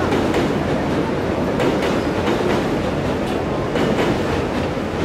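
Seoul Line 1 electric commuter train running past on a railway bridge: a steady rail rumble with the wheels clacking over rail joints in repeated pairs, about one pair a second.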